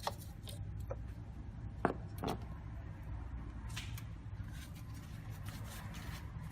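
Two sharp clicks a little under two seconds in, then soft rustling and scraping, over a steady low hum.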